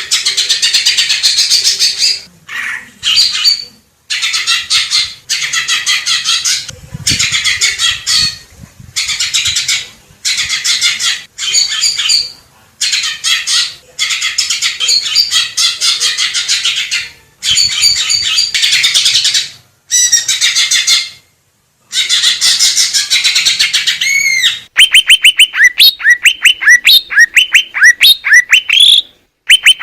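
Green leafbird (cucak ijo) singing: loud bursts of rapid, chattering song phrases a second or two long with short gaps between them. Near the end it changes to a fast, even series of repeated down-slurred whistled notes.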